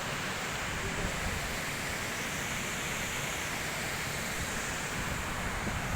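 Steady rushing of a waterfall, with wind buffeting the microphone underneath.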